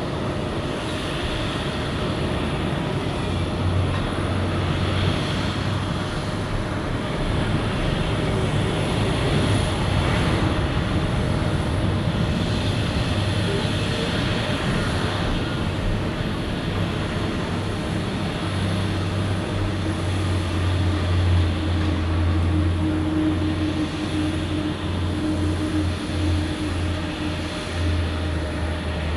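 Jet airliner arriving, its engines making a steady noise with a low hum underneath.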